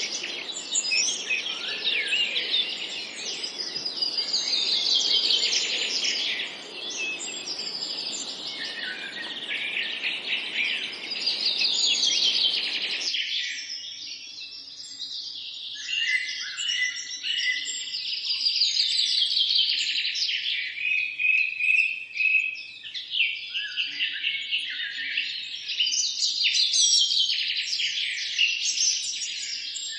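A chorus of many songbirds chirping and trilling, their calls overlapping continuously. Under them is a low, even background hiss that cuts off abruptly about 13 seconds in.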